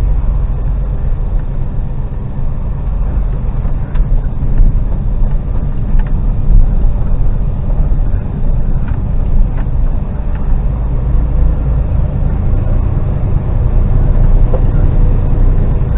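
Articulated lorry's diesel engine and cab running steadily on the move, heard from inside the cab as a low drone, with a few faint clicks.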